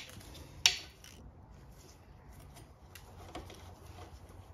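Two sharp clicks of hand tools on metal, less than a second apart, then a few faint taps, while the water pump is being unbolted from the engine.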